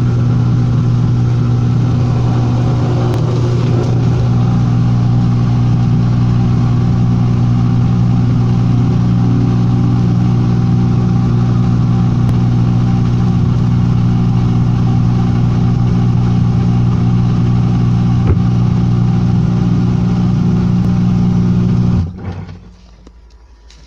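Washing machine running with a loud, steady motor hum, which stops abruptly near the end.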